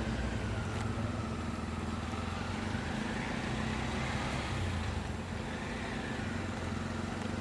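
A motor engine running steadily with a low hum, with a faint whine that slowly rises and falls in pitch.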